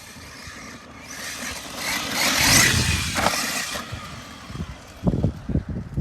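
Arrma Mojave 6S RC truck running on dirt. Its brushless electric motor whines and its tyres hiss over the dirt as it passes, loudest about two and a half seconds in. A few low thumps follow near the end.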